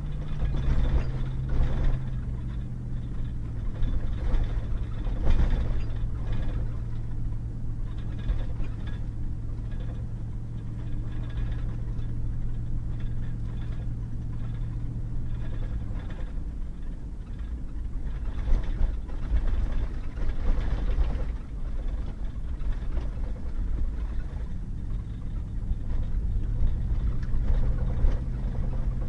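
Pickup truck driving on a rough, muddy back road: a steady engine hum that fades away about halfway through and comes back near the end, with bursts of knocks and rattles as the truck jolts over the road.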